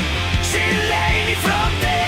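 Loud rock music with distorted electric guitar, a driving bass and drums.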